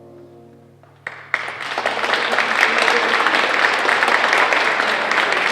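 The last piano chord dies away, then about a second in an audience breaks into applause that swells quickly and carries on steadily.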